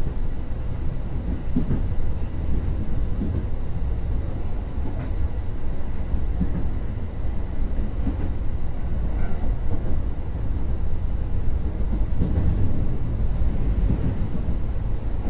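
Kintetsu 2050 series electric train running: a steady rumble of wheels on track with a few faint, irregular knocks.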